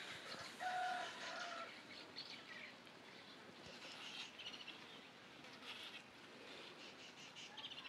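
Birds calling and chirping faintly: two short pitched calls about a second in, then scattered brief high chirps.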